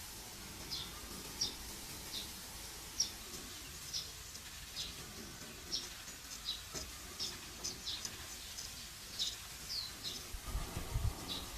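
Straight razor scraping stubble in short, quick strokes, about two a second, each a crisp high scratch. Low bumps of handling come near the end.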